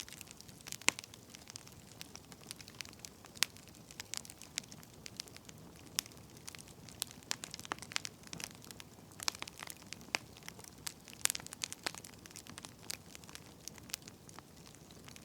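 Wood fire burning, with irregular sharp crackles and pops over a soft steady hiss.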